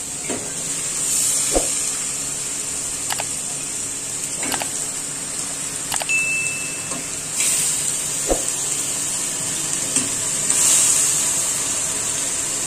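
Masala sizzling in a hot aluminium pot as handfuls of marinated chicken are dropped in. The sizzle swells each time a handful lands, with several light knocks of chicken pieces and the spatula against the pot. A short beep sounds about six seconds in.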